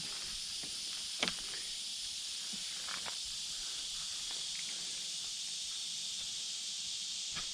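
Steady high-pitched chorus of insects droning in the surrounding woods, with a couple of faint snaps or footsteps on the ground about a second in and about three seconds in.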